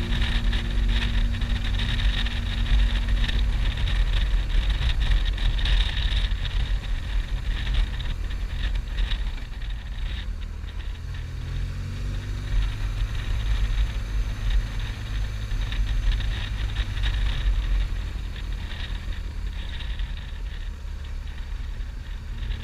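Motorcycle engine running while riding, under a heavy low rumble; the engine pitch rises and falls several times in the second half, as with throttle and gear changes.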